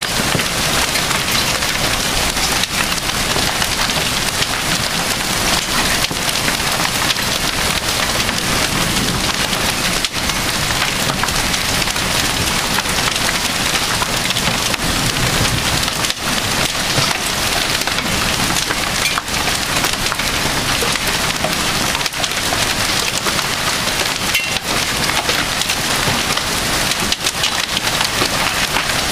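Hail pelting hard surfaces: a loud, dense, steady clatter of many small impacts.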